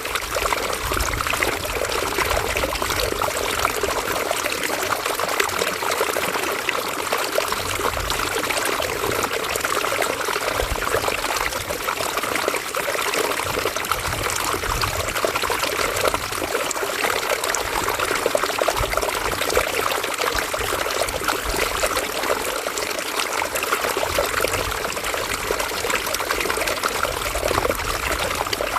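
A river's water running steadily over stones, with a continuous trickling, splashing rush.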